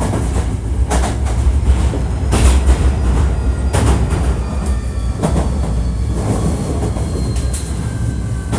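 Hankyu 1300-series electric train car running, heard from inside the car: a steady low rumble of wheels on track, with sharp clacks about every second and a half as the wheels pass over rail joints or points.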